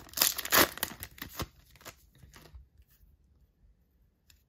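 Crinkling of a trading-card pack wrapper as the cards are handled. It fades out after about two seconds, leaving a few faint ticks near the end.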